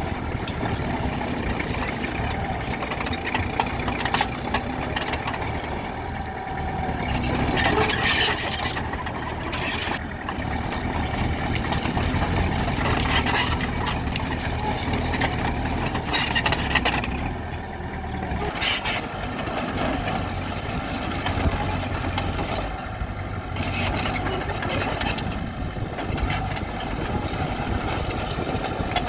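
Bulldozer's diesel engine running steadily under load, with several short bursts of grinding and scraping noise, typical of the dozer working rock.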